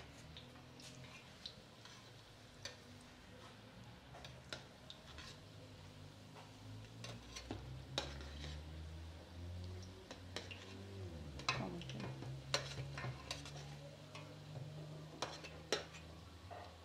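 Gorditas frying in shallow oil in an enamel pan: a faint sizzle, with scattered clicks and scrapes as a metal utensil turns them against the pan. A low hum runs through the middle seconds.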